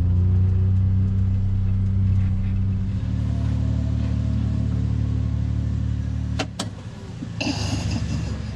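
Engine running steadily, its note changing about three seconds in, with two sharp clicks about six and a half seconds in and a short rattling burst near the end.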